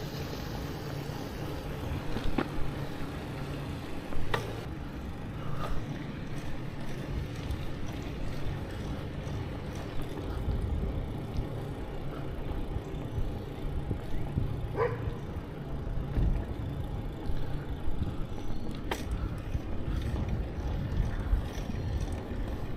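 Riding on a bicycle: a steady low wind rumble on the microphone and tyre noise, with a few short sharp sounds scattered through.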